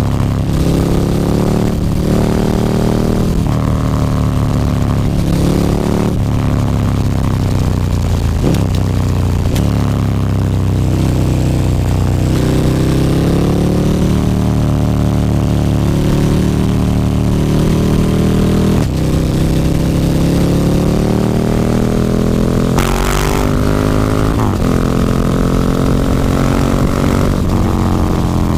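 KTM 1290 Super Duke R's V-twin engine running through an Akrapovic slip-on exhaust with the dB killer removed, under way on the road. The revs climb and fall repeatedly, with a few sharp drops in pitch.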